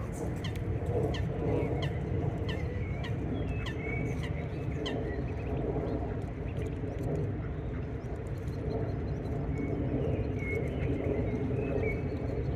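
Birds calling in short, high chirps and peeps, thickest in the first few seconds and again near the end, over a steady low rumble.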